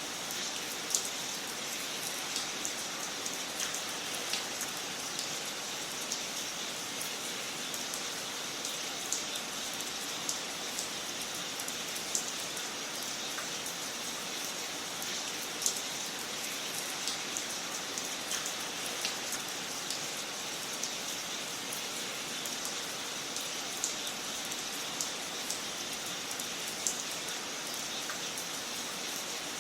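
Wood fire crackling in a fireplace: a steady hiss with scattered sharp pops at irregular intervals.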